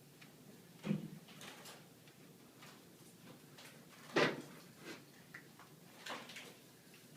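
Scattered light taps and ticks with two louder knocks, about a second in and about four seconds in: a trapped bird striking window glass.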